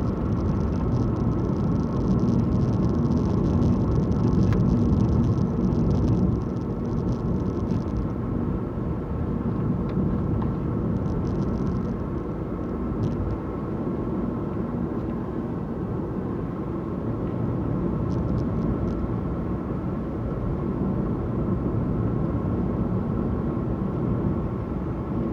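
Car driving along a road, heard from inside the cabin: a steady rumble of engine and tyres. A brighter hiss rides on it for the first eight seconds or so, then fades, leaving the rumble a little quieter.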